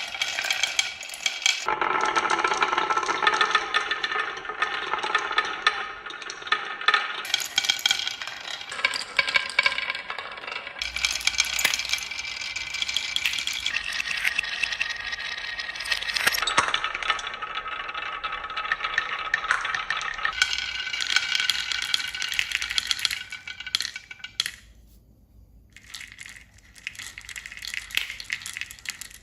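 Many small hard objects rattling and clinking against each other in a dense, continuous clatter. It dies down briefly near the end.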